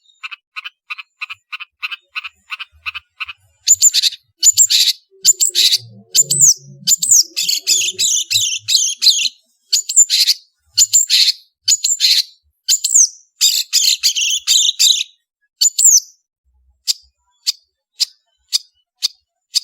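Long-tailed shrike (cendet) singing: a run of short repeated notes about three a second, then a loud stretch of scratchy chattering phrases with quick whistled slides, easing back to single notes about two a second near the end.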